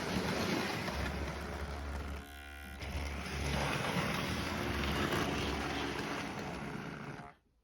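Model train running along the track, its motor and wheels making a steady whirring rumble that dips briefly a little over two seconds in and cuts off abruptly near the end.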